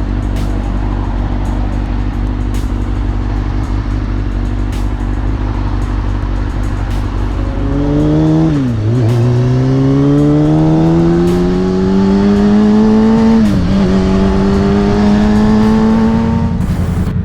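Motorcycle engine running at a steady drone, then accelerating hard from about halfway: its pitch climbs, dips at an upshift, climbs again, dips at a second upshift and climbs once more before cutting off near the end.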